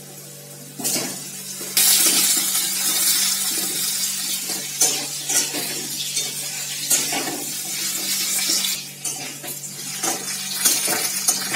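Cut potato pieces going into hot oil in a metal kadai start sizzling about two seconds in, then keep frying with a steady hiss. A metal spatula clicks and scrapes against the pan as they are stirred.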